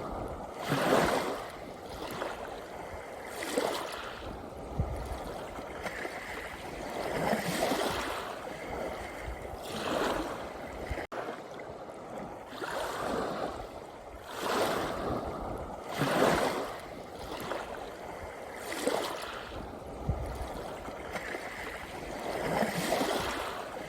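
Sea waves washing in on a shore, each wave a swell of surf noise that rises and falls every two to three seconds.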